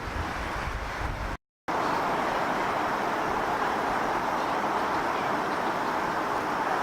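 Steady outdoor rushing noise with low wind rumble on the microphone. It cuts out completely for a moment just over a second in, then returns as an even rushing noise without the rumble.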